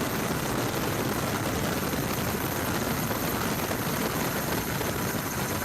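Steady aircraft engine noise, even and unbroken.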